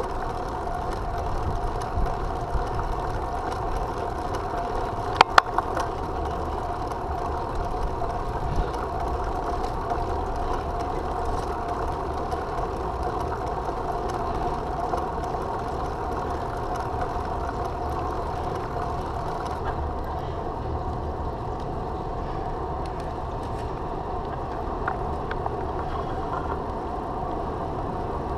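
Road noise while riding a bicycle on a street: a steady rumble and hum of tyres and wind on the microphone, with two sharp clicks about five seconds in.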